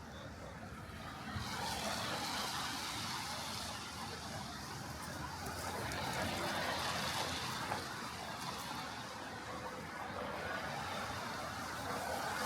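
Road traffic passing on a wet street: the hiss of car tyres on damp tarmac swells about a second and a half in, then rises and falls as vehicles go by.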